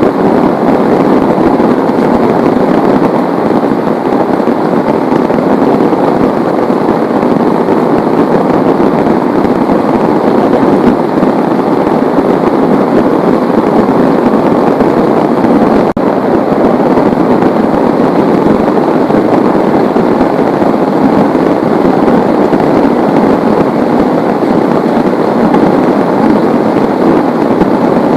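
Heavy rain falling, a steady, dense hiss of drops that holds at the same level throughout.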